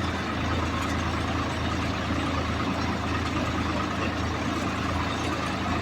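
Heavy diesel engine of a tractor or backhoe loader idling steadily, a low even hum.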